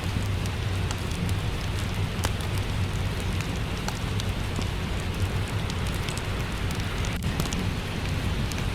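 Steady rain falling, mixed with a crackling wood fire: a constant hiss and low rumble with scattered sharp pops and crackles.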